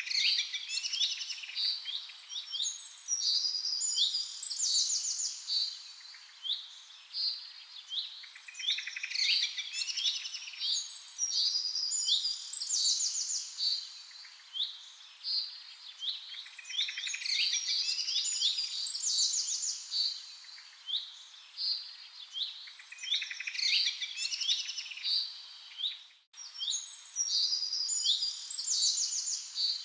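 Bird chirping and trilling in quick, sharp high-pitched notes, the same run of phrases repeating about every eight seconds, with a brief cut-out near the end.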